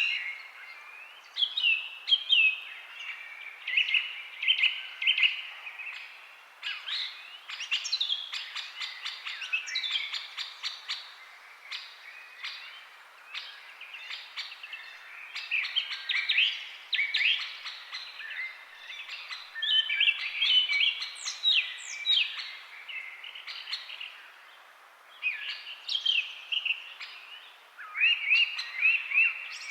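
Cardinals singing: phrases of clear, repeated slurred whistles, broken by short pauses and mixed with quick sharp chip-like notes.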